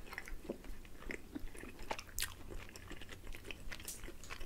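Close-miked chewing and biting of pizza: irregular soft mouth clicks and crackles, with a couple of sharper crunches about two seconds in and near the end.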